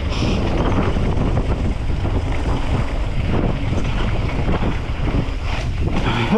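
Heavy wind buffeting the microphone over the rumble and rattle of a mountain bike riding fast downhill on a dirt trail.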